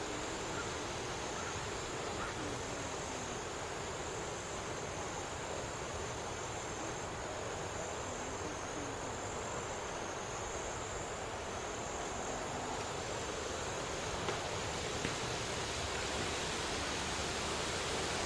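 Steady wind hiss outdoors, with a faint, wavering high-pitched whine held steady above it.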